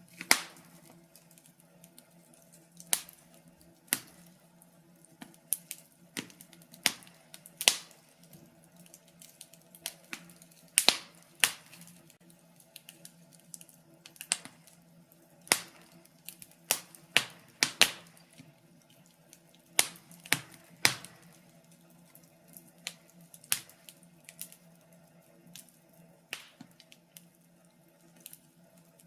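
Fire crackling: irregular sharp pops and snaps, several a second at times, with a few louder cracks standing out, over a faint steady hum.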